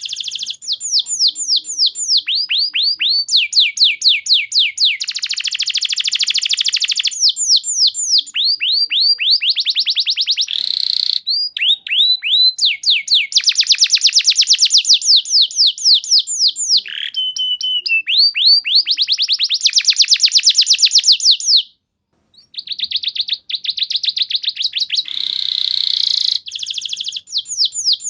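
Domestic canary singing a long, fast song: trills of rapidly repeated downward-sweeping notes, phrase after phrase at changing speeds, broken by one short pause about three quarters of the way through.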